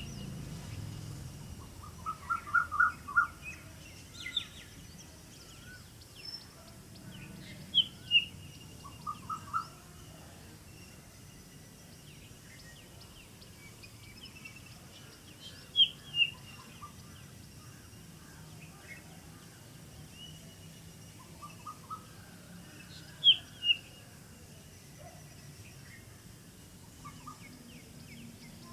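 Several wild birds calling in a morning chorus. The loudest is a sharp two-note call, each note falling in pitch, repeated about every seven to eight seconds. Between these come short quick runs of lower notes and fainter scattered chirps.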